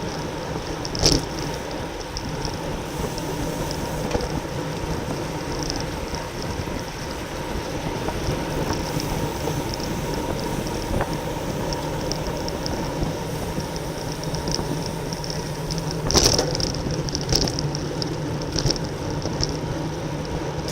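Steady wind and road noise on a camera riding along on a racing bicycle, with two sharp knocks, one about a second in and a louder one near the end.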